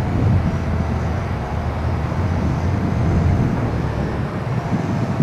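Steady rumble of wind on the microphone, with the faint steady hum of the YiZhan X6 quadcopter's motors as it is brought down.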